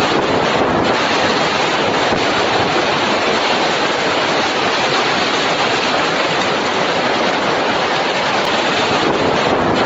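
Strong storm wind blowing, a loud, steady rushing noise with no break.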